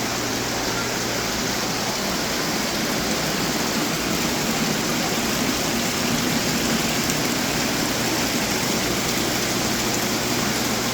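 Steady splashing of running water from garden fountains.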